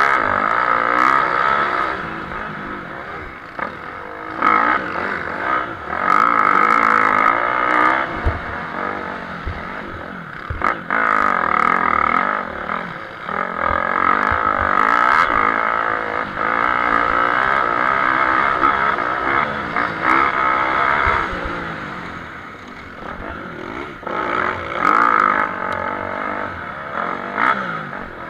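Motocross motorcycle engines racing, revving hard and easing off again with gear changes, swelling loud several times as bikes pass and fading between passes.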